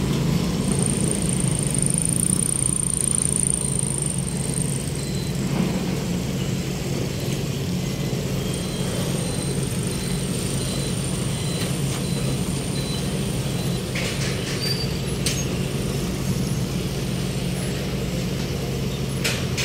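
Heavy engines running steadily as a low, even drone, with a faint high whine coming and going and a few light clicks near the end.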